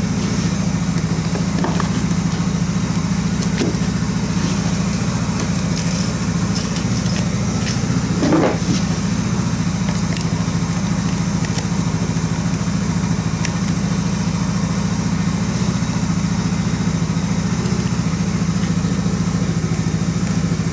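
An engine idling steadily at an even speed, with a short squeak about eight seconds in.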